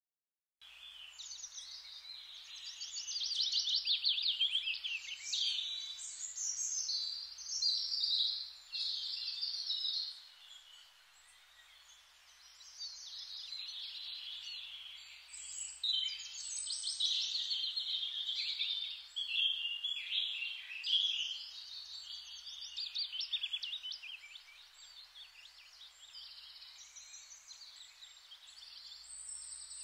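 Songbirds chirping and singing in quick trills and twittering phrases. The chirping thins out briefly about ten seconds in.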